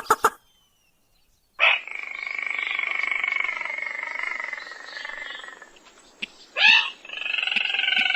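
Crake calls played as a bird-trapping lure: a quick run of sharp notes, a pause, then a long buzzy trill that slowly drops in pitch and fades. A single sharp note follows, then another trill begins near the end.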